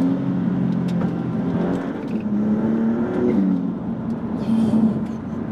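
Maserati MC20's twin-turbo V6 heard from inside the cabin while driving. The engine note holds steady, then climbs and drops away about three seconds in. A short hiss comes about four and a half seconds in.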